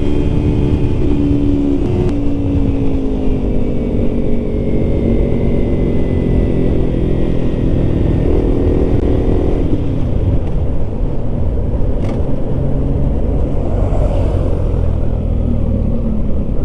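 Yamaha MT-09 motorcycle engine running steadily under way, heard from the rider's position with wind rushing over the microphone. The engine note eases slowly lower over the first ten seconds or so.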